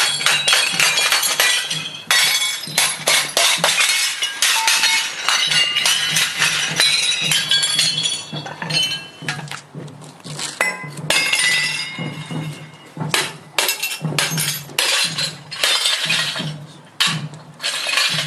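Fired ceramic pieces clinking and knocking together with short ringing tones as pottery is unloaded from a traditional wood-fired kiln, many sharp clinks in quick succession.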